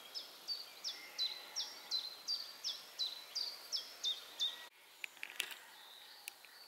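A bird calling a steady series of high, sharply down-slurred notes, close to three a second, that stops abruptly a little past halfway; after it come a few faint ticks.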